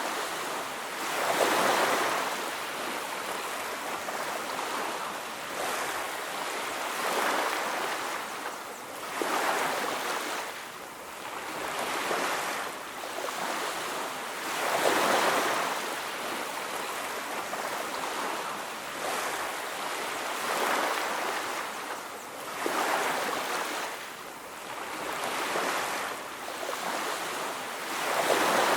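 Sea waves washing onto a beach, a steady surf hiss that swells and falls back every two to three seconds.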